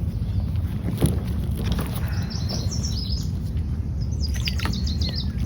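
A songbird singing two short phrases of quick, high chirps, one about two seconds in and another about four seconds in, over a steady low rumble. A single sharp knock about a second in.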